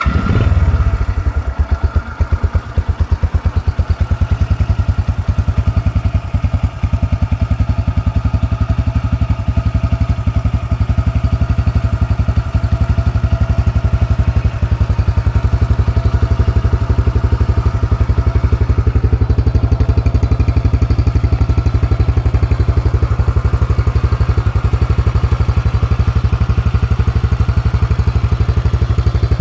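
Engine of a 125cc scrambler motorcycle, a single-cylinder, starting abruptly with a brief surge, then settling into a steady idle.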